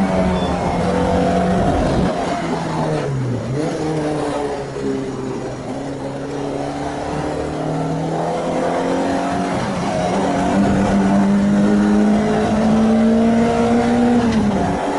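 Renault Clio 2 RS's freshly rebuilt 2.0-litre four-cylinder engine running hard on track. Its pitch falls off sharply about three seconds in, then climbs steadily under acceleration and drops again at a gear change near the end.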